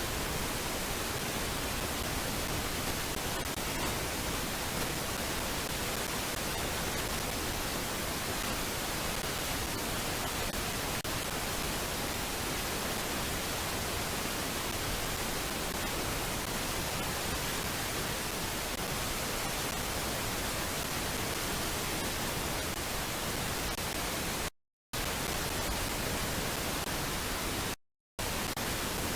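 Steady, even static hiss, with two brief dropouts to dead silence about 25 and 28 seconds in.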